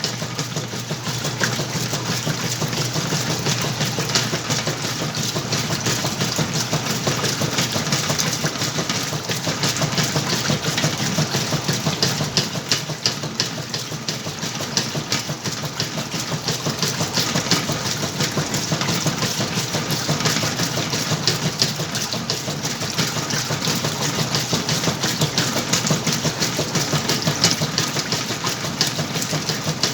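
Whirlpool washing machine running its wash cycle: a steady motor hum with a fast, even rattle throughout.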